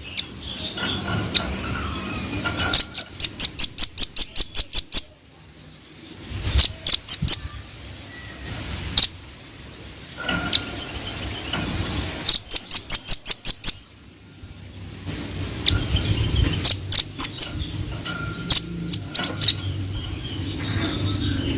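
Velvet-fronted nuthatch singing: repeated rapid runs of sharp, high 'chit' notes, about six a second, each run lasting one to two seconds, with short pauses between.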